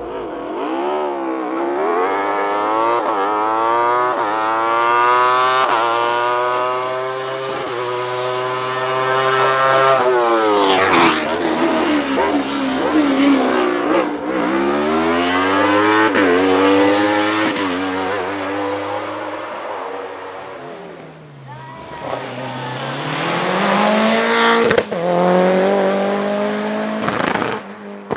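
A hillclimb race car's engine at full throttle, its note climbing through several upshifts as it passes. It fades briefly, then comes back loud near the end, with a few sharp cracks at gear changes.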